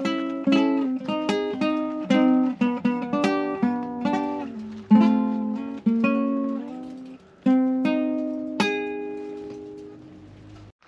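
Background music of a plucked acoustic guitar picking a melody note by note. Near the end a last note rings out and fades away.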